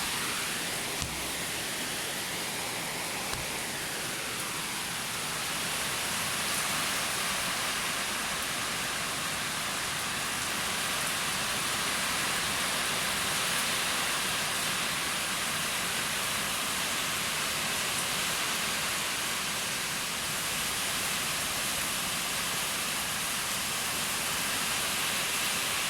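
Heavy rain pouring down in a wind-driven storm: a steady, even rush of noise, with a couple of faint knocks in the first few seconds.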